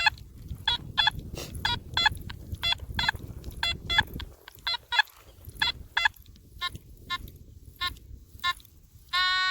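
Metal detector on a five-tone setting giving short repeated beeps, about two to three a second, as the coil is swept back and forth over a buried target. The tone is a mid tone that could mean another silver dime. Near the end the beeping gives way to one steady held tone.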